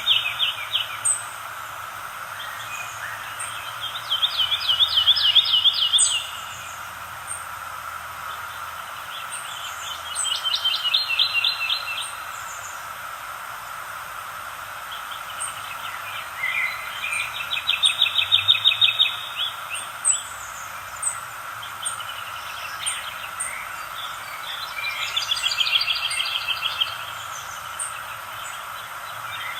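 A songbird repeats a fast trilled song, a rapid run of notes lasting about two seconds, four times at intervals of six to seven seconds. Under it runs a steady background hiss, with faint high chirps from other birds.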